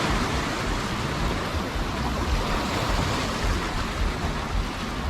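Sea surf washing onto a beach, a steady rushing noise, with wind rumbling on the microphone.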